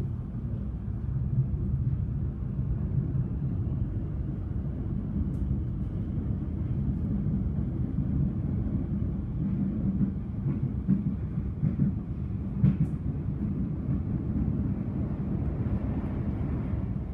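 Steady low running rumble heard from inside a Siemens electric suburban train carriage in motion, with a few short sharp clicks and knocks from the wheels over the track.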